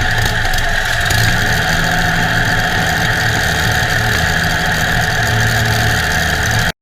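The 1920 350hp Sunbeam 'Blue Bird' land speed record car's V12 aero engine running steadily at low revs. The sound cuts off suddenly near the end.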